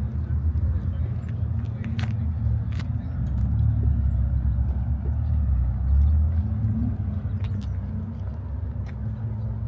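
A car engine running with a steady low rumble that swells a little in the middle.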